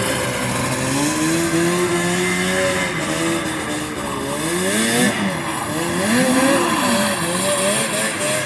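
1980 Ski-Doo Blizzard 9500 snowmobile's two-stroke engine revving, its pitch rising and falling again and again as the throttle is worked.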